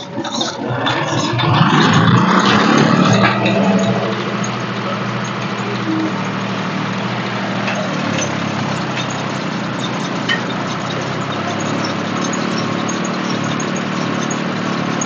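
Tractor diesel engine revving loudly for the first few seconds, its pitch rising, then settling into a steady idle.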